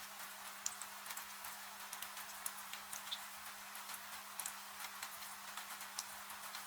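Wood fire crackling with irregular sharp pops over a steady hiss of falling rain, with a faint steady low hum underneath.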